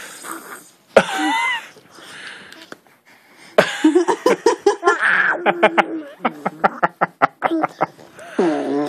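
A baby blowing raspberries against a bare arm, making wet, fart-like sputters in quick pulses, mixed with laughter.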